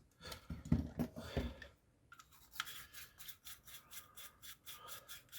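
A few handling knocks in the first second and a half, then rapid, even scratchy scrubbing strokes, about seven a second, on small machine parts.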